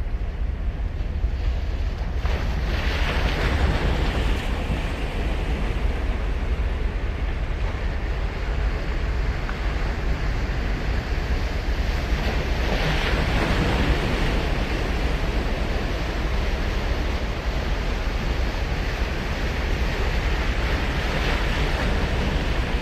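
Surf breaking on a sandy beach, a steady wash with three swells of louder breaking, about three seconds in, again around thirteen seconds and near the end, over a low rumble of wind on the microphone.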